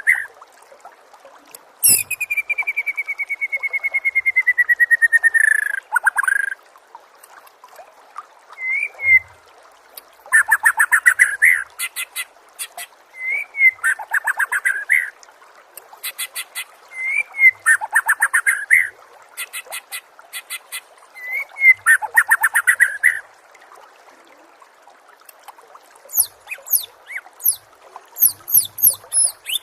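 Songbird song from a recorded bird-training track: a long stuttering trill that slowly falls in pitch, then a phrase repeated about every four seconds, a short up-and-down note followed by a rapid pulsed trill that drops in pitch, with a fast high ticking over it. Near the end a different quick, high chattering starts.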